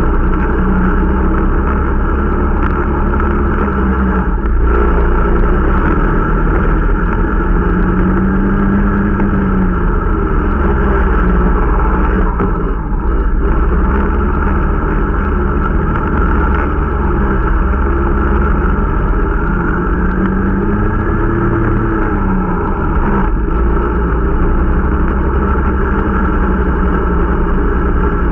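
Irbis Dingo T125 snowmobile engine running under way, its pitch slowly rising and falling several times as the speed changes, while the new machine is being run in.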